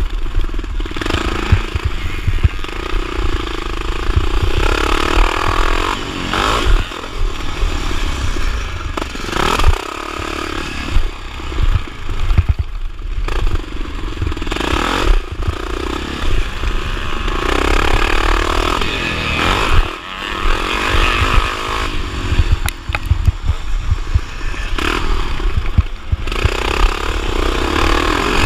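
1979 Honda XR500's single-cylinder four-stroke engine revving hard and backing off again and again, its pitch rising and falling with brief throttle-offs, over scattered knocks and rattles.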